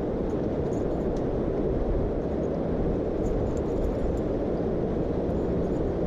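Jet boat engine running with a steady low rumble.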